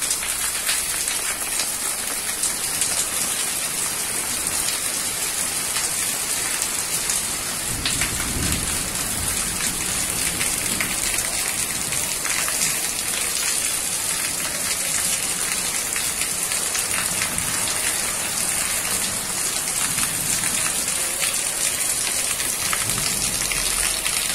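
Heavy rain pouring steadily, a dense hiss of drops, with a brief low rumble about eight seconds in.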